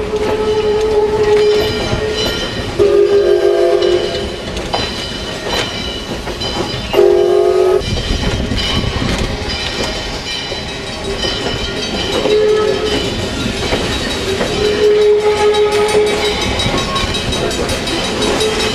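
Steam locomotive whistle sounding two blasts, the first about a second long and the second a little shorter, over the steady running noise of the train on the rails.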